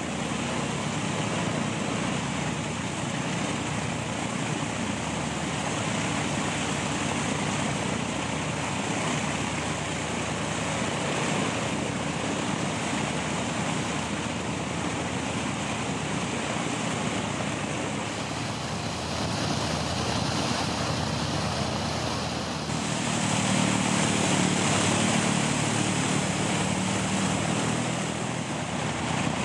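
Piston engines of a propeller aircraft running on the ground during an engine run-up, a steady heavy drone that grows louder about three-quarters of the way through as power is increased.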